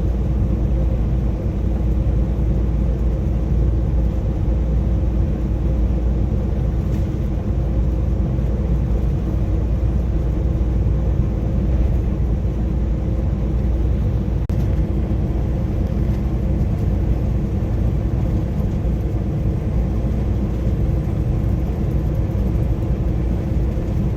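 Semi truck driving, its engine and road noise heard inside the cab as a steady low rumble with a faint steady hum over it.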